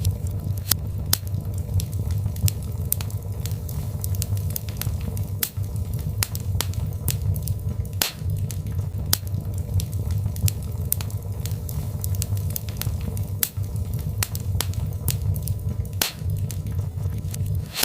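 Birch logs burning in a fireplace: a steady low rumble from the flames under frequent sharp crackles and pops, several a second.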